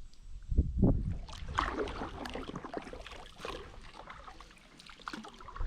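Kayak paddle strokes in river water: irregular splashing and dripping, busiest in the first half and thinning out toward the end.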